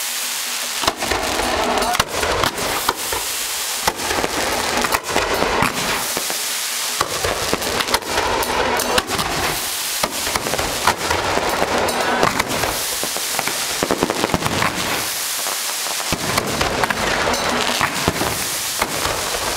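Firecracker strings going off in a dense, unbroken crackle of rapid bangs and pops.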